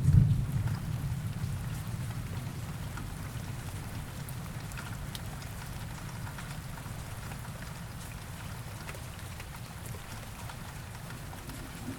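Steady rain falling, with scattered drops ticking. A low thunder rumble is loud at the start and fades away over the first few seconds.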